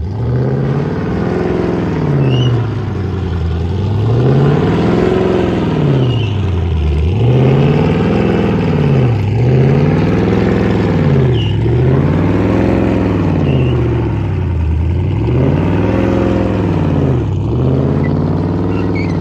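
Car engine revving up and down over and over, its pitch swelling and falling in a steady cycle about every two seconds.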